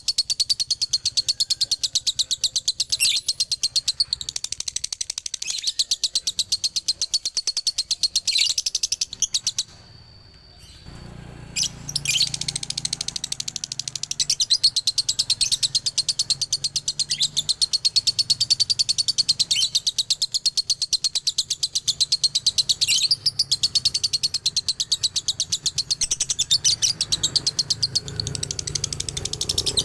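Male lovebird singing its long, rapid, high-pitched chattering trill (the 'ngekek' song), with a pause of about two seconds about ten seconds in.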